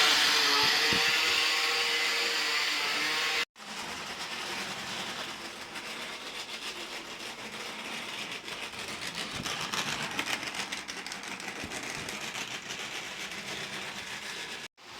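HO scale model train running on the layout. For the first few seconds there is a loud motor whir with a steady hum. After an abrupt cut it becomes a quieter rattle of rapid fine clicks from the wheels on the track, which cuts off again near the end.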